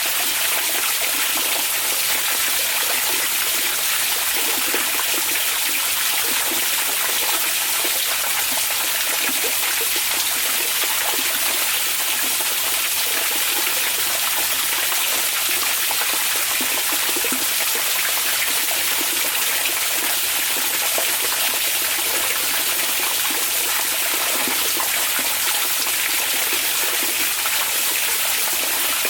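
Hot spring water pouring and splashing steadily into an onsen bath, an even rush of running water with no breaks.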